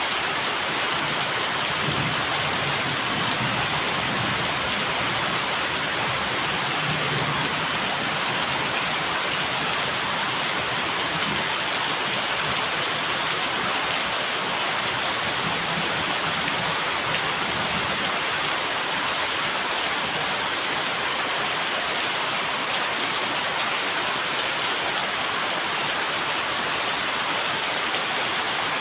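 Steady rain falling, an even hiss without a break, with a few faint low rumbles of distant thunder.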